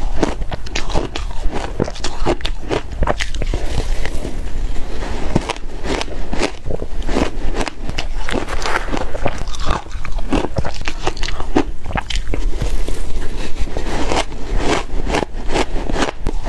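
Ice being bitten and chewed close to the microphone: a continuous run of crisp crunches and crackles.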